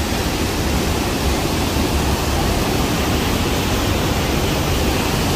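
The Rhine Falls' water pouring down, a steady loud rush of a large waterfall heard close up.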